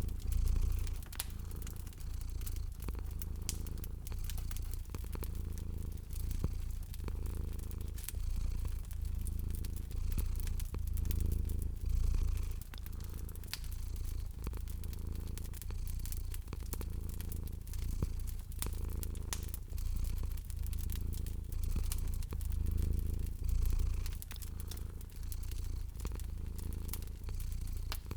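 Domestic cat purring, a low rumble that swells and eases in a slow rhythm, over a wood fire crackling with many small sharp pops.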